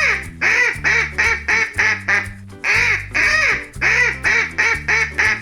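Duck quacking over and over in quick runs of short quacks, with background music underneath.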